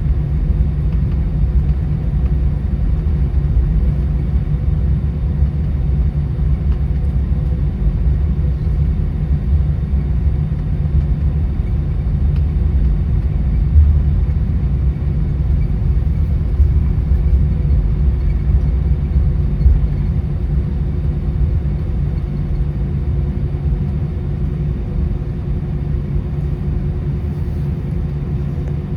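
Steady cabin rumble of an Airbus A319 with its engines running, with a few steady hums laid over it. Two brief bumps come around the middle.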